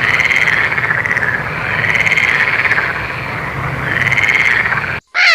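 Frog calling: a pulsed trill that rises and falls in pitch, repeated about once a second over a background chorus of other calling frogs. It cuts off abruptly near the end.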